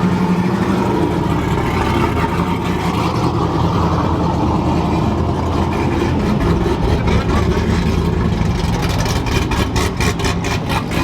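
Truck engine running steadily at idle. In the last couple of seconds a rapid, regular ticking joins it, about four or five times a second.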